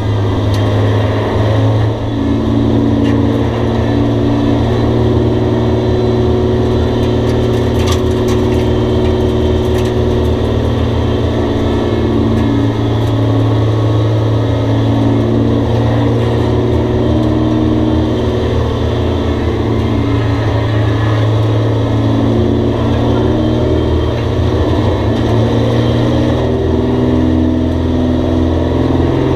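Race car engines running at racing speed on a short oval track. The loud, steady engine note rises and falls in pitch as the cars accelerate and lift.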